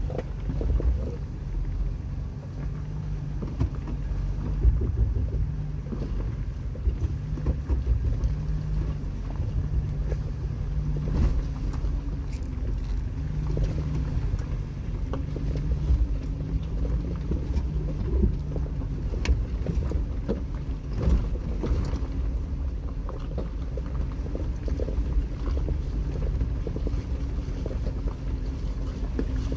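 Jeep Wrangler engine running at low speed while crawling over a rocky off-road trail, with irregular knocks and bumps from the rocks and suspension.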